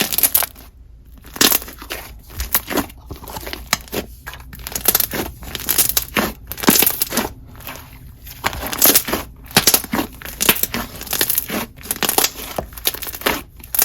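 Chewy glossy slime with foam chunks being squished and pulled by hand, making irregular wet squishing and crackling sounds with small bubble pops.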